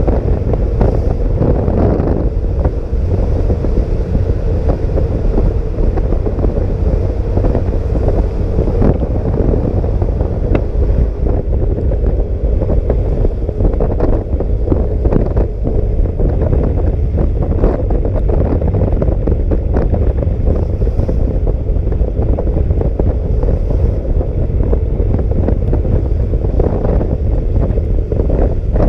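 Steady wind buffeting the microphone of a moving scooter in the rain: a loud, constant low rumble that buries everything else.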